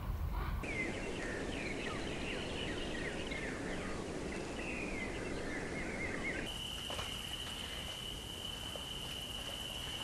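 Several birds chirping in short, quick, curving calls over a steady background hiss. About six and a half seconds in this cuts to a single steady high-pitched tone held for about four seconds.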